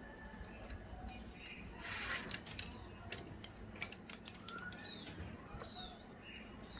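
Young zebra doves making short, thin chirps that glide up and down in pitch, mostly in the second half, among scattered light rustling and clicks. The whole is faint.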